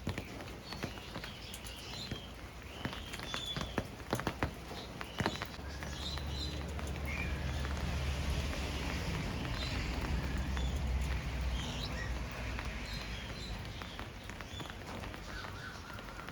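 Captive parrots chirping and calling in short scattered notes, with a few sharp clicks in the first five seconds and a low rumble through the middle.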